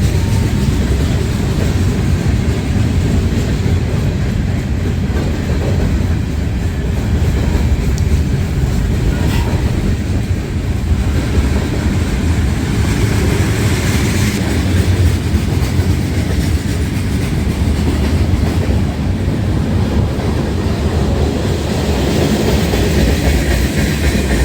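Freight train rolling past: a steady, loud noise of wheels and cars on the rails.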